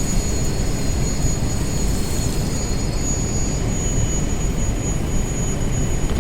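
TAFE 6028 tractor's diesel engine running steadily, driving the mounted backhoe loader, with a faint high whine that fades out about halfway through.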